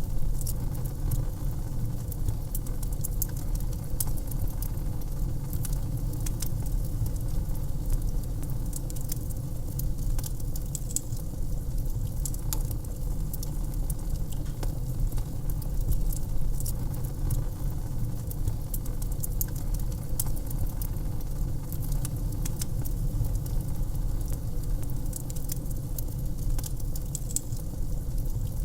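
Wood fire burning in a fireplace and crackling, with frequent sharp pops at irregular moments over a steady low rumble of the flames.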